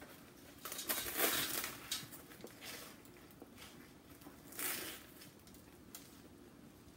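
Crunching bites and chewing of a sandwich of Flaming Hot Cheetos–crusted fried soft-shell crab. There is a spell of crackly crunching about a second in that lasts over a second, and a shorter crunch past the middle.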